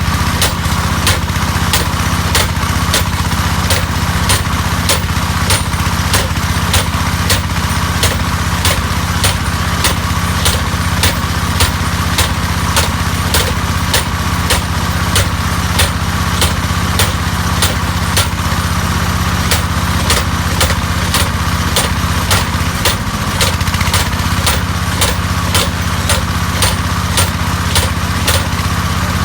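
Engine-driven hammer drill running steadily, a small engine's hum under regular sharp hammer knocks, a little over two a second.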